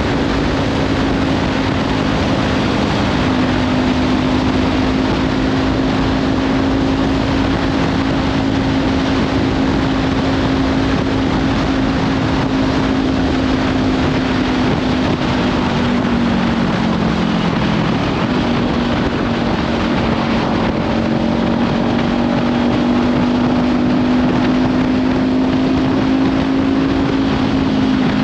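Kawasaki Ninja 500's parallel-twin engine with a Leovince slip-on exhaust, running steadily at road speed under heavy wind noise on the microphone. The engine note drops a little past halfway, then climbs back and holds.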